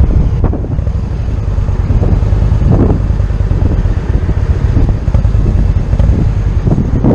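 2015 motorcycle running steadily under way, its low engine rumble mixed with wind rushing over the microphone.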